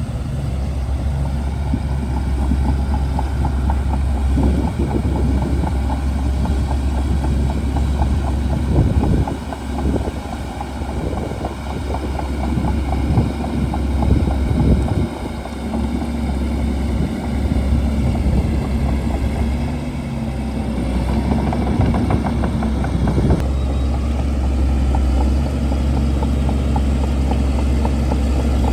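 Shantui DH17C2 bulldozer's diesel engine running steadily, with a spell of crackling and clattering in the middle. The engine note shifts about three-quarters of the way through.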